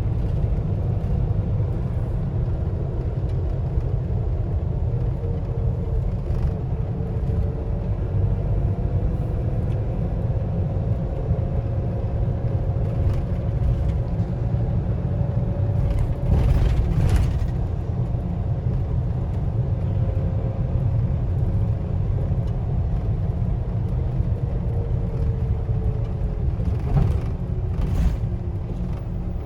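Car driving, heard from inside the cabin: a steady low road and engine rumble with a faint whine that drifts gently in pitch. A few brief knocks come about halfway through and again near the end.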